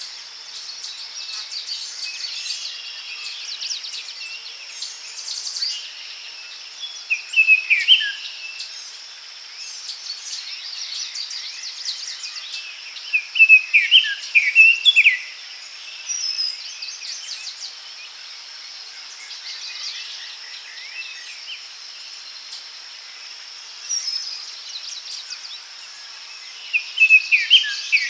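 Daytime forest chorus: a steady high insect buzz throughout, with songbirds singing short phrases of quick falling notes that stand out three times, about a quarter of the way in, around the middle and near the end.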